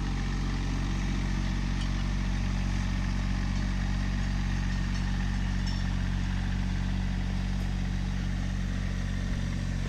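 Tractor engine running steadily at an even speed as the tractor works the food plot.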